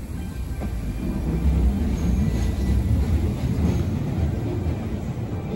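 Hanshin Railway local electric train pulling slowly into a station on a sharp curve: a low rumble of wheels and motors that grows louder and peaks near the middle, with a faint wheel squeal.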